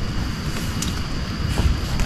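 Rain falling steadily, with a few sharper drop hits and low rumbling wind buffeting on the microphone.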